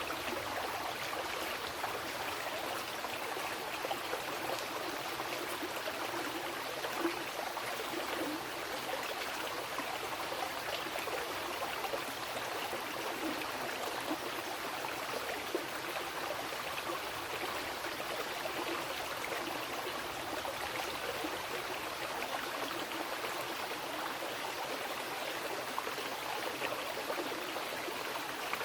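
A fast mountain river rushing and splashing over rocks, in a steady, unbroken wash of water noise.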